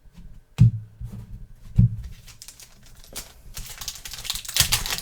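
Trading cards and a card-pack wrapper being handled on a table. There are two dull thumps about half a second and two seconds in, then a run of quick clicks and crinkling from about three seconds on.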